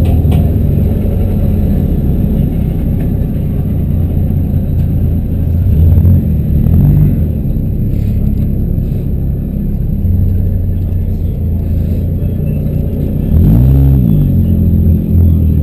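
Demolition derby cars' engines running loud with a low rumble, one of them revving up and back down near the end.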